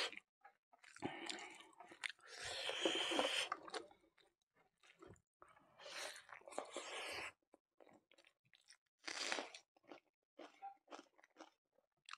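Close-up eating sounds: a person chewing mouthfuls of rice and braised pork eaten by hand, in several spells of about a second each with short wet clicks of the mouth between.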